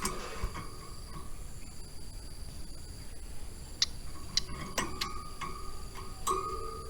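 Ciblek gunung (a small prinia) giving a quick series of sharp, short chip notes in the second half, over a steady high-pitched insect buzz.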